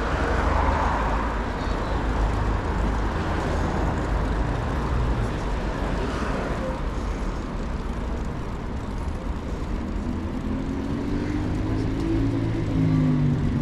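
Street traffic heard from a bicycle, with a motor vehicle's engine rising in pitch near the end.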